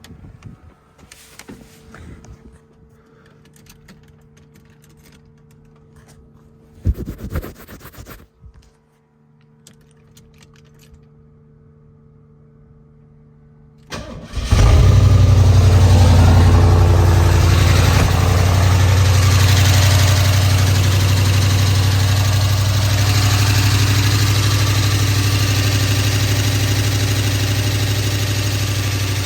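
Ford 351 Windsor V8, freshly fitted with inner valve springs and polylocks, starts about halfway through and then runs steadily, loud and easing down a little toward the end. Before it fires there is only a faint steady hum and one brief noise.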